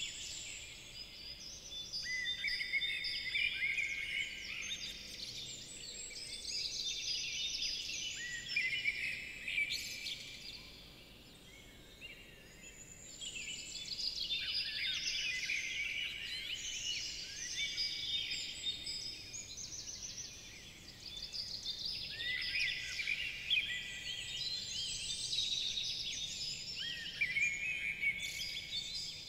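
Several songbirds singing at once, a dense run of quick chirps and trills with short lulls.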